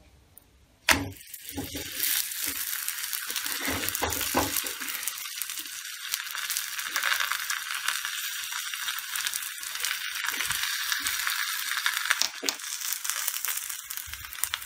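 A stuffed paratha lands on a hot oiled tawa with a sharp tap about a second in, then sizzles and crackles steadily as it fries in the oil.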